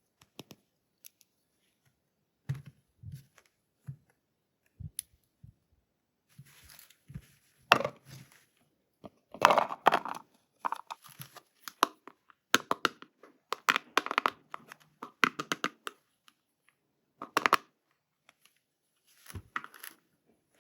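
Toy packaging being opened by hand: scattered light clicks and taps, then from about six seconds in a run of short tearing and crinkling sounds, with a couple more near the end.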